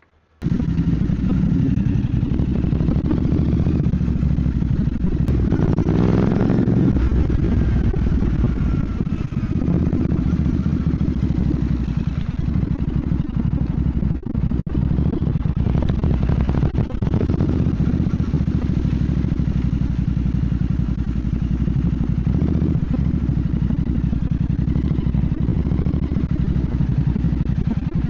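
Royal Enfield Bear 650's 648 cc parallel-twin engine running on the move, with the revs swelling around six seconds in and brief dips in level about fourteen and seventeen seconds in.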